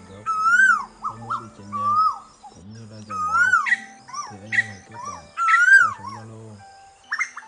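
Asian koels calling: a rapid run of whistled notes, each rising then falling, repeating about every half second. Higher, shorter calls overlap them, the male and female call types together.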